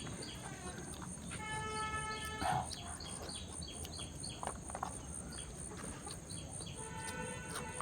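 Birds calling over a steady high insect drone, with short repeated chirps throughout. Two held, even-pitched calls each last about a second: one about a second and a half in, the other near the end.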